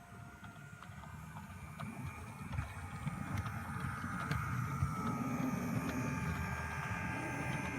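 OO gauge model train running along the track, growing louder as it comes closer. Its motor whines, the wheels rumble on the rails, and a few sharp clicks come from the wheels crossing rail joints.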